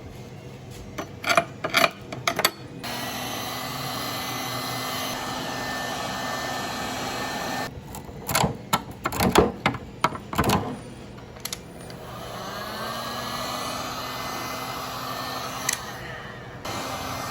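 Heat gun blowing steadily in two stretches, the second starting with a rising whine as its fan spins up, used to clear plastic stringing off a 3D print. Before and between the stretches come bursts of sharp clicks and knocks.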